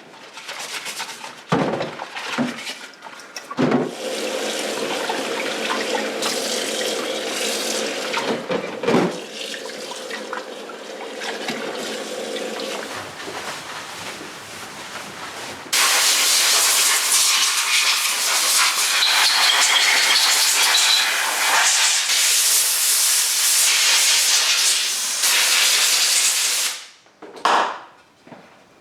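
Running water splashing as degreased engine casings are rinsed, with a few knocks. About halfway through, a much louder steady hiss takes over and cuts off suddenly near the end.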